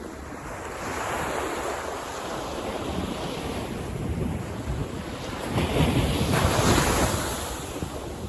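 Ocean waves breaking on a beach: surf swelling about a second in, then a bigger wave crashing, the loudest moment, around six seconds in before it washes back and fades.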